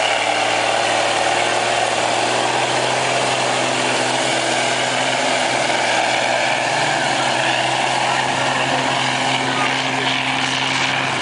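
Truck engine running steadily at a constant speed, without revving.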